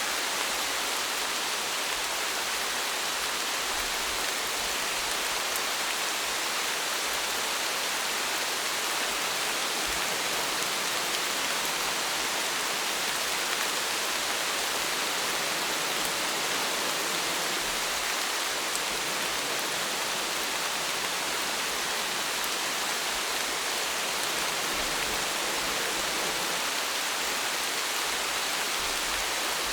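Steady rainfall: an even hiss of rain with faint scattered drops, no change in intensity.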